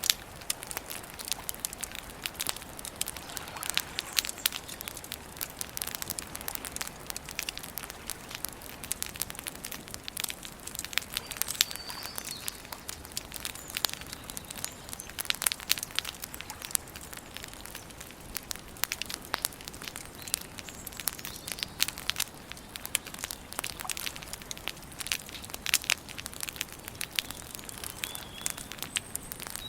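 Wood campfire crackling, with frequent sharp, irregular pops and snaps over a steady hiss. A few faint bird chirps come in now and then.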